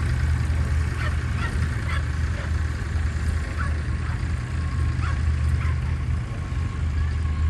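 A machine's engine running with a steady low throb, with short high chirps or squeaks scattered over it about every half second to second.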